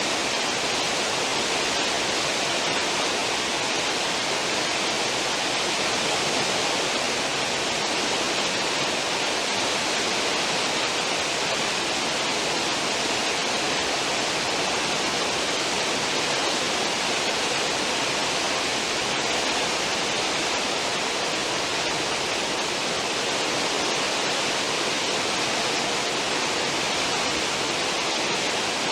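A cruise ship's stern wake: water rushing and foaming in a steady, unbroken wash.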